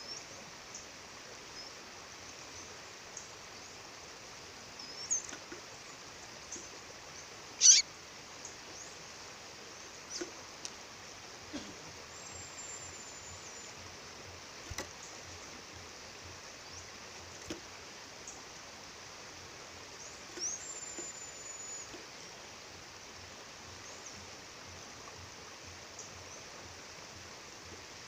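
Steady rush of a waterfall, with a female bird calling over it in scattered high chirps, one loud sharp downward call about eight seconds in, and two thin, very high whistles held about a second each.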